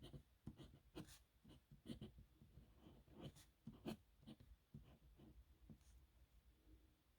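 Dip nib pen scratching on paper in quick, irregular strokes as someone writes by hand, quieter and sparser near the end.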